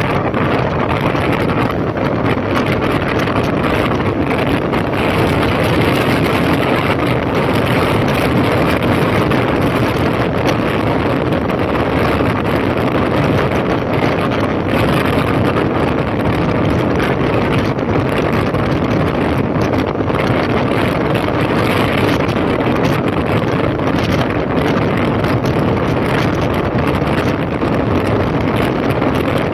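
2005 Honda CB1300's inline-four engine running steadily on a ride, heard under heavy wind noise on the microphone.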